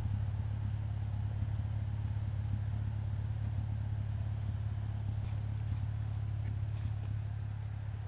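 2002 Hyundai Sonata idling steadily through a Netami aftermarket performance muffler, a low, even exhaust drone.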